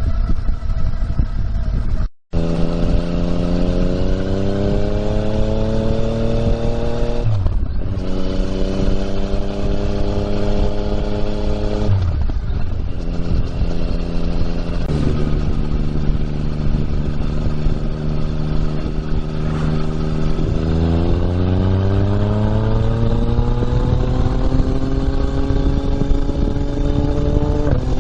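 2020 Yamaha MT-09's 847 cc inline three-cylinder engine through an Akrapovič exhaust, heard while riding. It accelerates, its pitch rising and dropping back at two upshifts, holds a steadier cruise, then climbs again in one long pull near the end.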